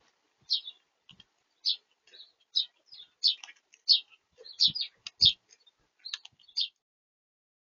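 A small bird at a feeder chirping in short, high, repeated notes, about a dozen over six seconds. Two dull knocks against the feeder come a little past the middle.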